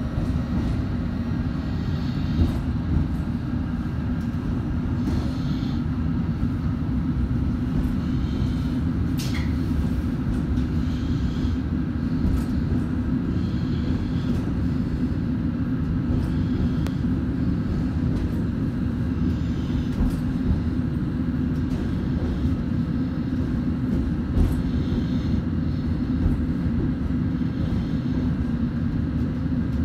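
London Underground S8 stock train running at speed, heard from inside the carriage: a steady low rumble of the wheels and running gear with a steady hum, and occasional faint clicks.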